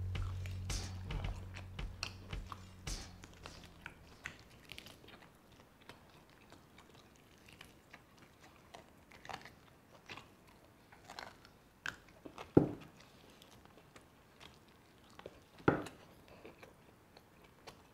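A person chewing and biting roast duck meat: faint, scattered mouth clicks and soft crunches, with two sharper clicks in the second half.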